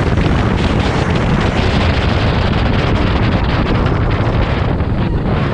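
Loud, steady wind noise buffeting the microphone on a speeding boat, drowning out any engine note.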